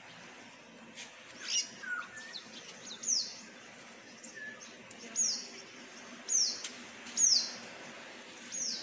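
Birds chirping: about six sharp, high calls that sweep downward, a second or so apart, with a few softer, lower chirps between them.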